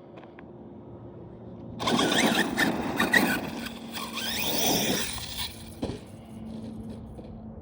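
A battery-powered brushless RC car, an Arrma basher, driving hard for about three and a half seconds starting about two seconds in. Its motor whine rises and falls over a loud rush of noise, then drops back to quiet.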